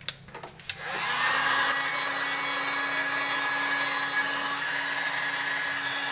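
Electric heat gun switched on about a second in and running steadily with a fan hum, heating the aluminium eccentric hub so its bearing bore expands for the chilled bearings. A few light clinks of parts come just before it starts.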